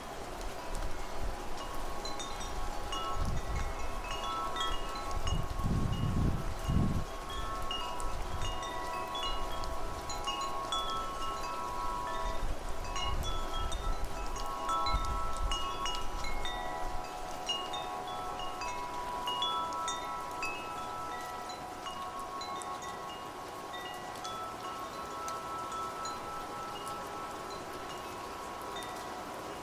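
Wind chimes ringing in a gusting wind, many metal tones struck in irregular clusters with long ringing notes beneath, and low rumbles of wind a few seconds in. The chiming thins out toward the end.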